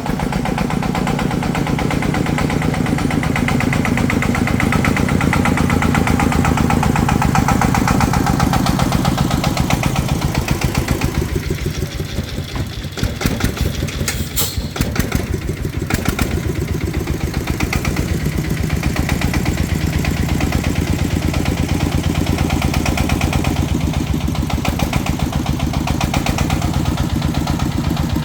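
Tractor engine running steadily with a fast, even low beat. It eases off for a few seconds around the middle, with a sharp click in the lull, then runs on as before.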